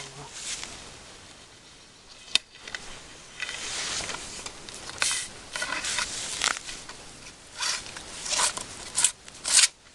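Irregular rustling and patter from a fishing screen net being handled as it is checked for catch, with a sharp click about two and a half seconds in.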